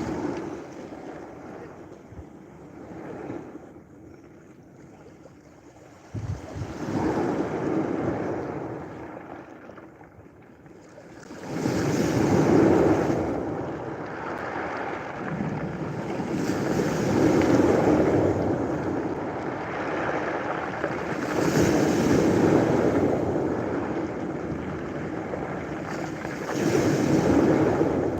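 Ocean waves breaking on a beach, each surge swelling and washing out. The surges come softer in the first few seconds, then louder about every four to five seconds from roughly twelve seconds in.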